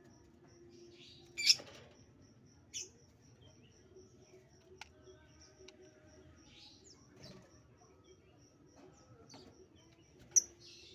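Birds chirping: a few short, sharp high-pitched chirps, the loudest about one and a half seconds in, another soon after and one near the end, with fainter chirps between.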